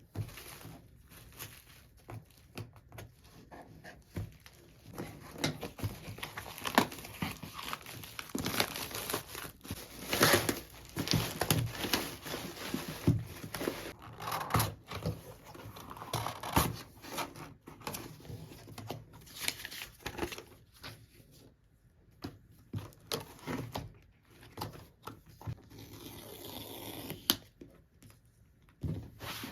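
Packaging of a laptop box being torn open and crinkled, with irregular taps and knocks of the box being handled.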